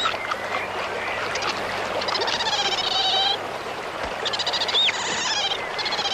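Animal calls: rapid rattling trills in three bouts, with a short upward-hooked call near the middle, over a steady hiss of background noise.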